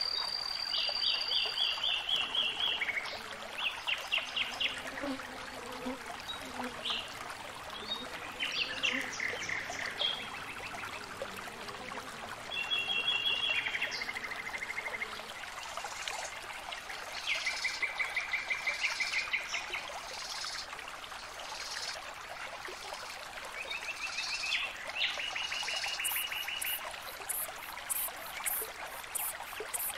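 Nature ambience: songbirds singing in short, fast trills of repeated notes over the steady trickle of a stream, with a high, rapid pulsing joining near the end.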